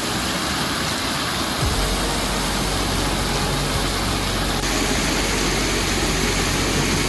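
Brandywine Falls, a 60-foot waterfall, rushing: a steady, dense wash of falling water. A low rumble joins about a second and a half in.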